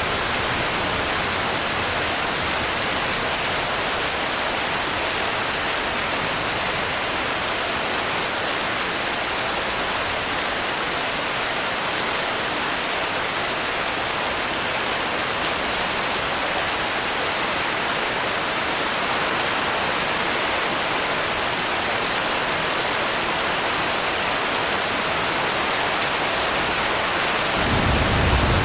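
Steady, even rainfall, a dense hiss without a break. A low rumble comes in near the end.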